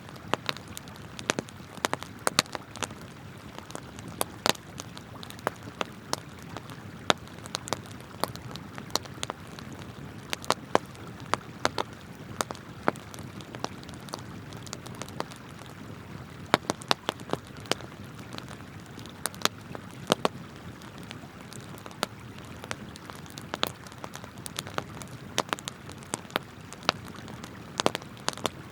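Wood campfire crackling, with frequent irregular sharp pops, over the steady rush of a flowing river.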